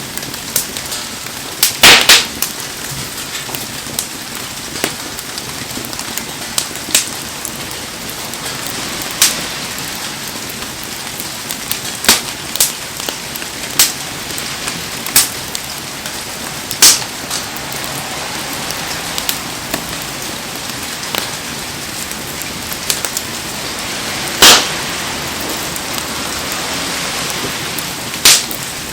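Heavy rain falls in a steady hiss around a burning wood fire. Sharp pops and crackles from the fire come every second or two, with a cluster of loud pops about two seconds in and another loud pop near the end.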